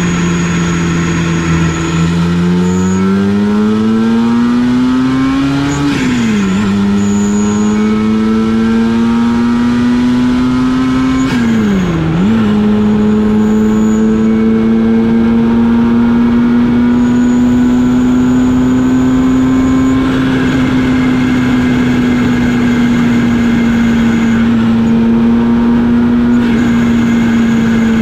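Supercharged mk2 Golf GTI engine (2.0 L 8-valve with a G60 supercharger) pulling under load. The engine note climbs in pitch, dips sharply with a gear change about six seconds in, climbs again, dips with another shift around twelve seconds, then settles into a nearly steady drone.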